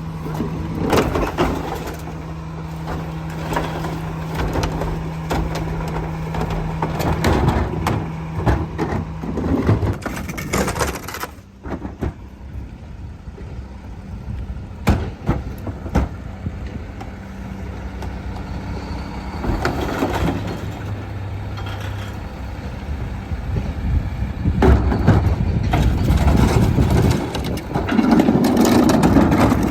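Split-body garbage truck running, with repeated clanks and knocks of collection work; a steady hum drops out about seven seconds in, it goes quieter for several seconds, then louder again near the end.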